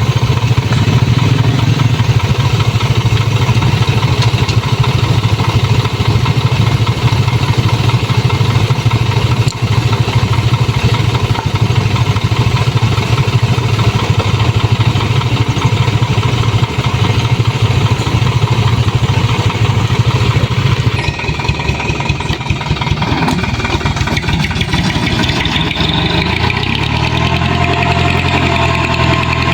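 Toyota Dyna dump truck's diesel engine running steadily with a fast, even pulsing. About two-thirds of the way through the sound changes and drops a little, and near the end a rising whine comes in.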